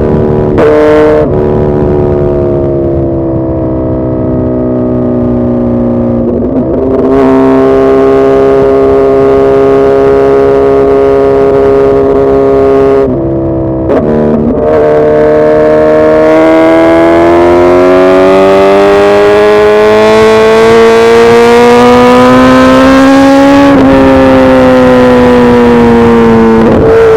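Suzuki Hayabusa's inline-four engine running under load. The engine note holds steady, breaks off briefly a few times, climbs slowly in pitch for several seconds in the second half, then drops back near the end.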